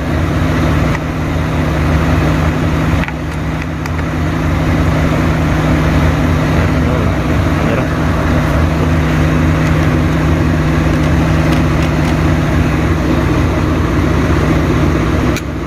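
A vehicle engine idling steadily, a low even hum, with a few faint clicks.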